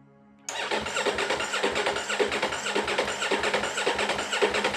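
A rebuilt Ducati motorcycle's engine being cranked on its electric starter in a first start attempt, an even chugging about four to five beats a second that begins about half a second in and keeps going for nearly five seconds.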